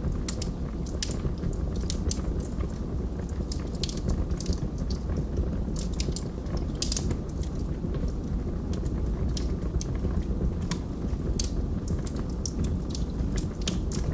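Logs burning in a fireplace: a steady low rumble of the fire with frequent irregular sharp crackles and pops of the burning wood.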